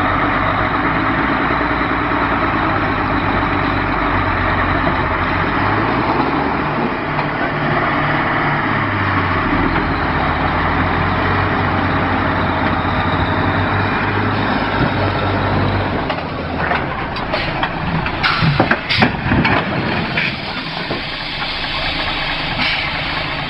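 A vehicle's engine running steadily, heard from inside the vehicle. Late on comes a run of sharp, irregular knocks and clatter over a few seconds.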